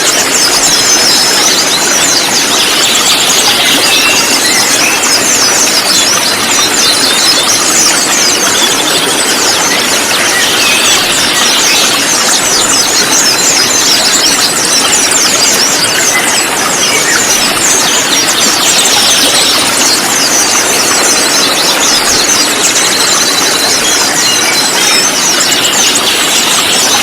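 A flock of konin birds chirping and trilling together, a dense unbroken chatter of rapid high chirps over a steady hiss.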